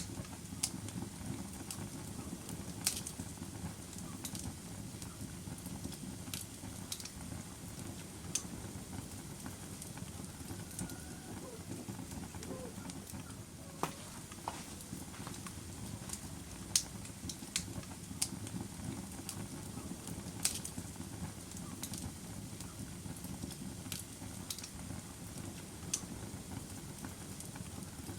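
Log fire burning in a fireplace: a steady low rustle of flames with irregular sharp crackles and pops, the loudest snaps a little past the middle.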